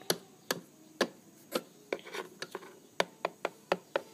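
Sharp plastic taps of Littlest Pet Shop toy figures being hopped along a hard surface to make them walk. The taps are irregular, a couple a second, and come faster in the second half.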